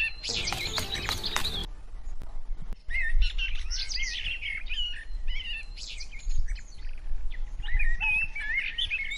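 Small birds chirping: many short, quick rising and falling calls that start about three seconds in and carry on to the end. A brief burst of rushing noise comes near the start, under a low steady rumble.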